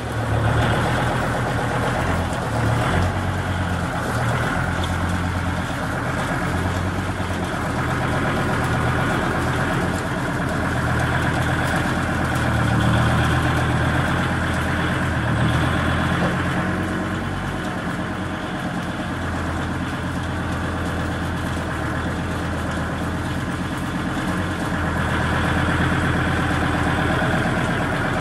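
Kubota L3750 diesel tractor engine running steadily, its level rising and falling gently as the tractor works.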